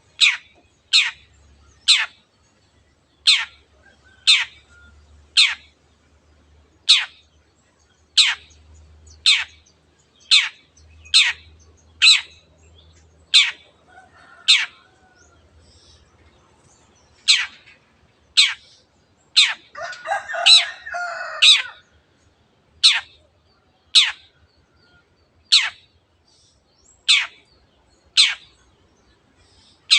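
Long-tailed shrike (cendet) repeating a sharp, steeply falling call note about once a second, the 'teot teot' call. A harsher, scratchy chatter breaks in around twenty seconds in.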